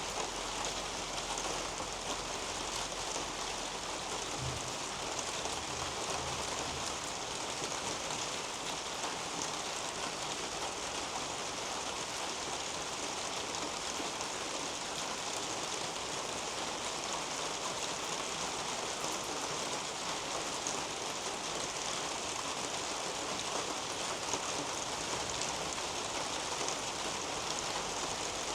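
Steady, even rainfall pattering on garden leaves and a roof overhead, with no let-up.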